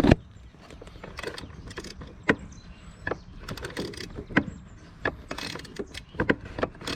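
Hand tools clinking and knocking on metal while working on a car's brake master cylinder: irregular sharp clicks, the loudest right at the start, coming closer together in the last two seconds.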